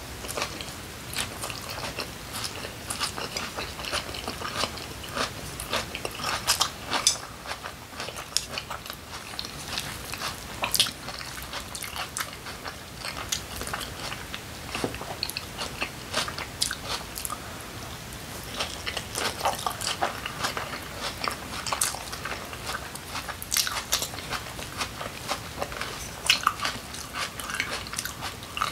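A person chewing crunchy kimchi close to the microphone: a steady run of wet, crisp crunches with a few louder bites.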